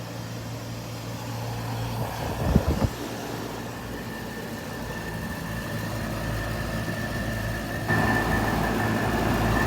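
Air conditioner unit running with a steady hum. A few knocks come about two and a half seconds in, then a high whine sets in and the running grows louder, with a sudden step up near the end.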